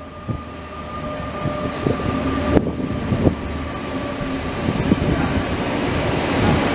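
Israel Railways passenger train passing close by, its coaches rolling on the rails and getting louder. A steady whine is heard near the start, and there are a few sharp clicks from the wheels.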